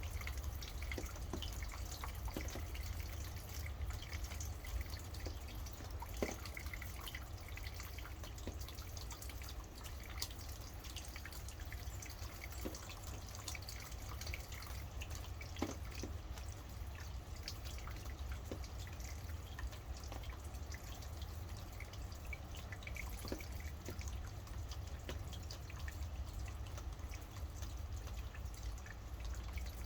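Steady rain, with many separate drops dripping.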